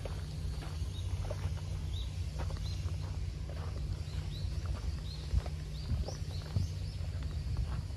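Small birds giving short, high chirps, one or two a second, over a steady low rumble, with soft footsteps on a dirt path.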